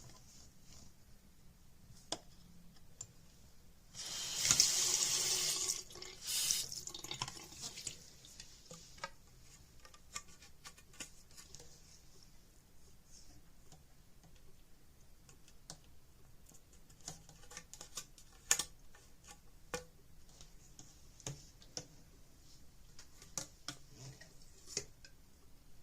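Water running for about two seconds, then again briefly, followed by scattered faint clicks and handling noises.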